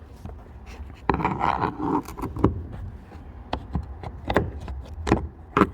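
Hand tools and fingers working inside a car's rear door: a short scrape about a second in, then a string of separate sharp clicks and knocks on metal and plastic.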